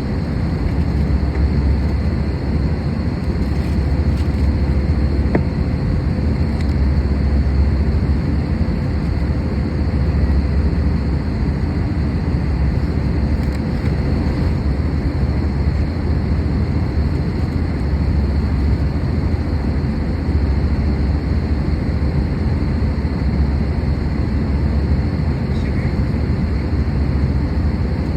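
Cabin noise of an Airbus A320-214 with CFM56 engines in cruise: a steady rush of airflow and engine drone, heaviest in the low end, with faint steady whining tones over it.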